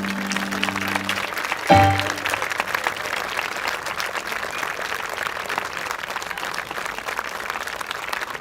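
The gospel band's final held chord ends about a second in, followed by one short closing hit. After that, an outdoor audience claps steadily.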